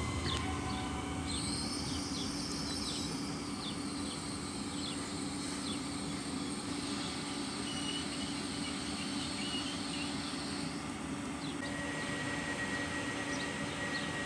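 A train running close by: a steady low mechanical hum, with a high whine that comes in about a second in and dies away a few seconds before the end.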